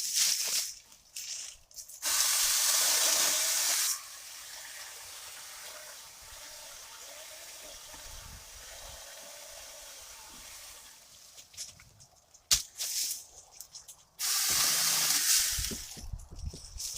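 Saker 20V battery-powered mini chainsaw running in two loud bursts with a quieter, steady stretch between them, its chain cutting through a branch of green wood. A sharp click comes between the bursts.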